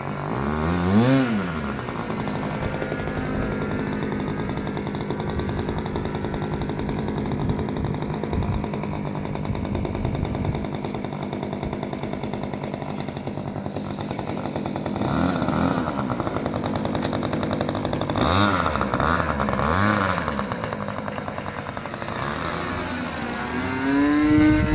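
RC Piper Pawnee model airplane's engine and propeller running in flight. The steady buzz swells up in pitch and back down several times, about a second in and three times in the second half, and rises again near the end.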